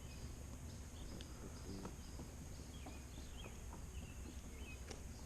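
Faint night chorus: a steady high insect drone with scattered short chirps, and a few light clicks.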